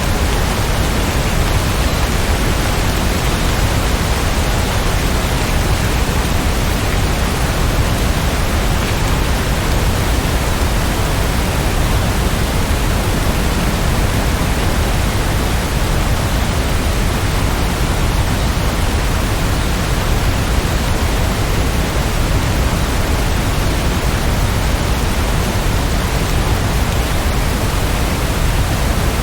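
Steady heavy rain: a dense, even hiss with no let-up.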